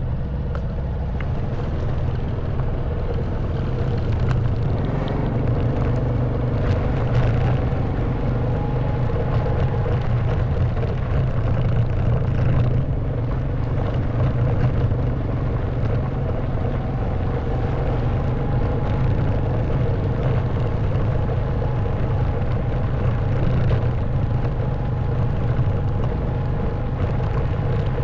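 Honda Wave 110cc single-cylinder four-stroke engine running steadily under way, with a few faint knocks.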